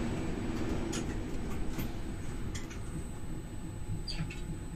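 Low steady rumble of an MI84 electric multiple unit running, heard from its driver's cab, easing slightly, with a few sharp clicks and rattles scattered through it.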